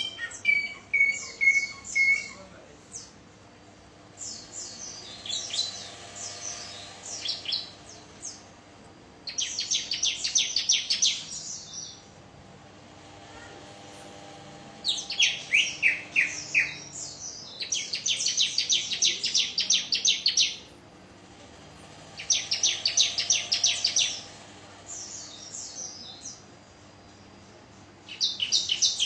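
Ciblek (bar-winged prinia) singing: repeated bursts of rapid, high chirping notes, each a few seconds long, with short pauses between.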